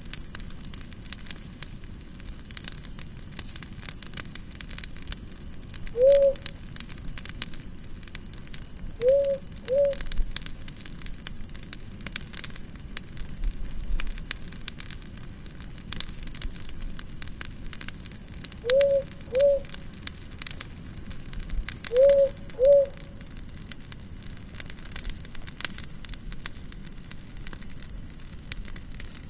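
Campfire crackling and popping, with a cricket chirping in short trills now and then. Short low calls, mostly in pairs, come several times and are the loudest sounds.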